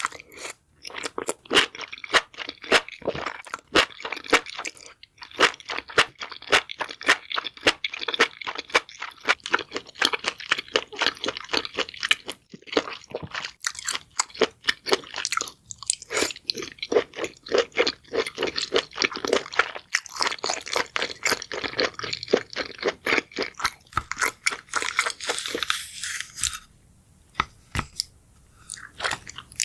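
Close-up crunchy chewing of crisp food: a dense, irregular run of bites and crunches, pausing briefly near the end.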